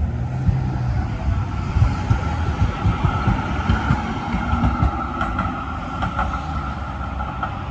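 Melbourne tram running along its rails: a steady low rumble with irregular knocks from the wheels over the track, and a steady high whine.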